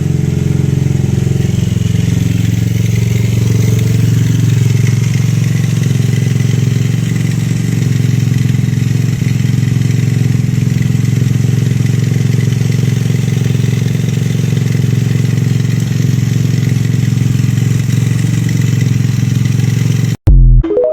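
Kawasaki Kaze single-cylinder four-stroke motorcycle engine idling steadily on a custom minibike. The sound cuts off suddenly near the end.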